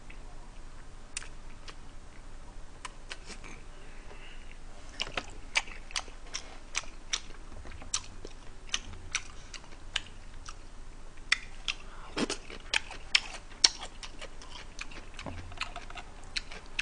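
Close-up eating sounds: chewing and lip-smacking as buffalo wings are eaten, heard as a run of short wet clicks that come thickest about five seconds in and again near twelve seconds. A fork clinks in a foil food tray.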